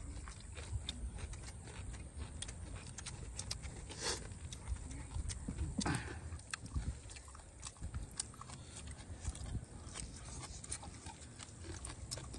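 Several people eating bok lhong (green papaya salad) and grilled fish with their hands: wet chewing and lip-smacking, heard as many short clicks all the way through.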